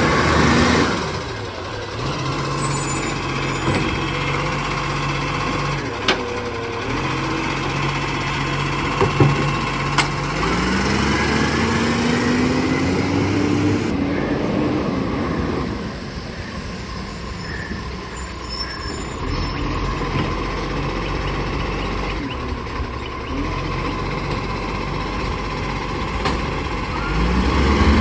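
A garbage truck's diesel engine running, its revs climbing for a few seconds about ten seconds in. A few sharp knocks come in between six and ten seconds in.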